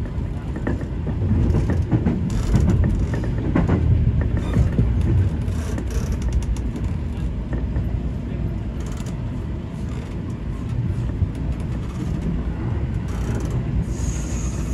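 Seibu 20000 series electric train running, heard from inside the front car: a steady low rumble of wheels on rail, with clusters of clicks and knocks as the wheels cross rail joints and points in the first half.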